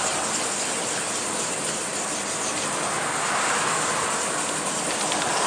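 Wet 2000-grit sandpaper scrubbing back and forth by hand on a plastic headlight lens, a steady wet rubbing noise. This is the wet-sanding stage of headlight restoration, with only light residue still coming off the lens.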